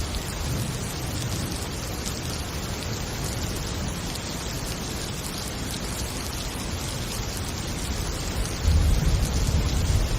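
Heavy rain falling steadily with a low rumble of thunder underneath, the thunder swelling louder near the end.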